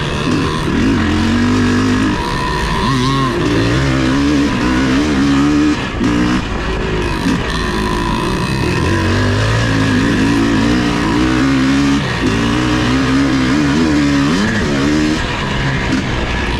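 Vintage off-road motorcycle engine running hard, its revs rising and falling again and again as the throttle is worked over the course.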